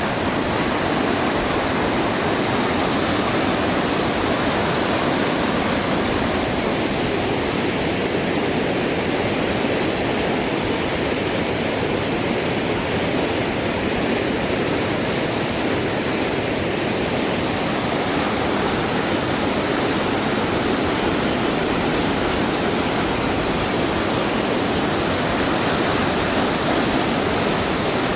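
Fast, rising river water rushing steadily.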